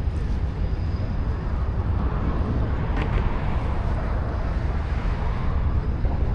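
Steady low rumble of road traffic on a busy bridge, with a faint tick about three seconds in.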